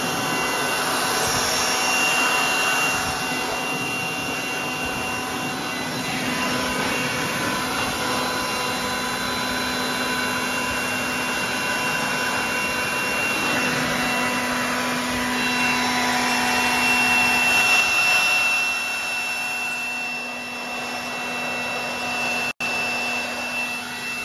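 DeWalt leaf blower running steadily with a whine, blowing water off a mower deck to dry it. Its level swells and dips as it is moved about, and it drops out for a split second near the end.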